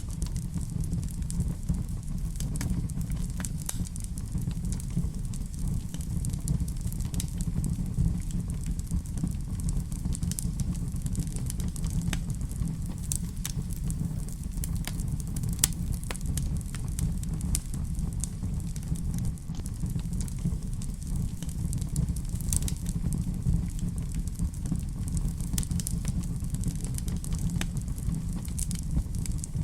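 Wood fire in a fireplace crackling, with frequent sharp pops over a steady low rumble; one louder pop about halfway through.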